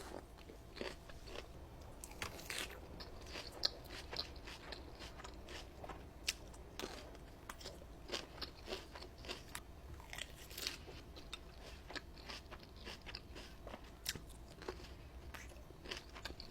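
Crisp Olive Garden salad being bitten and chewed, with many short, irregular crunches.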